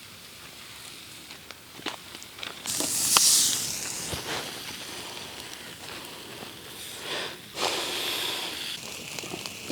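Masala-marinated goat leg sizzling on hot river stones heated by a wood fire: two loud hissing surges, one about three seconds in and another past the middle, with scattered sharp crackles.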